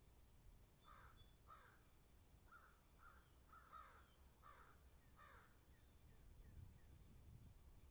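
A crow cawing faintly, a run of about seven short caws in the first five seconds, then stopping.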